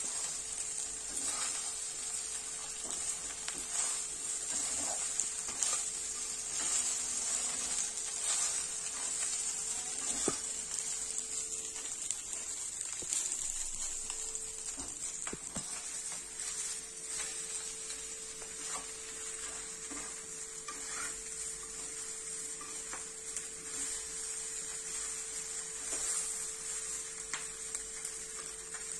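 Idlis frying in oil in a non-stick pan, sizzling steadily, with scattered clicks and scrapes of a wooden spatula stirring them against the pan. A steady low hum runs underneath.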